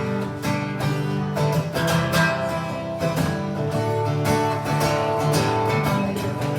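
Acoustic guitar strummed in a steady rhythm of chords that keep ringing between strokes.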